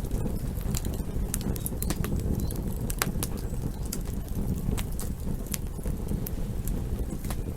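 Campfire crackling: irregular sharp pops and snaps from the burning wood over a steady low rumble.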